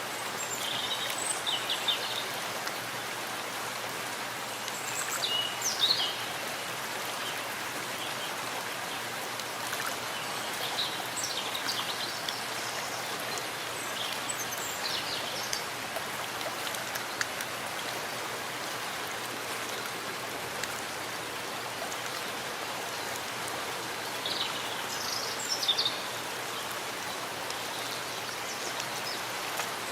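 Steady rain falling in a forest, an even hiss. Short bird chirps come through now and then, about a second in, around five to six seconds, between ten and fifteen seconds, and again near twenty-five seconds.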